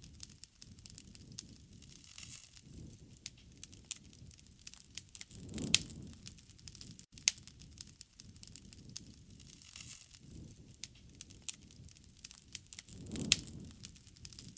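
Wood fire crackling, with sharp, irregular pops over a soft low rush of burning. Twice, a little before halfway and near the end, a louder swell of the flames ends in a strong pop.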